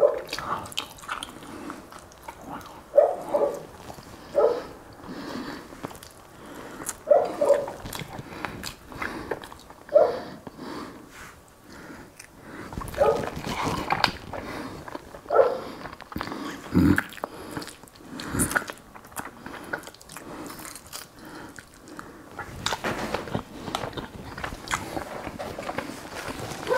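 Close-miked eating sounds from a man chewing grilled sea bream by hand: chewing and mouth smacks come at irregular intervals, mixed with short sharp clicks.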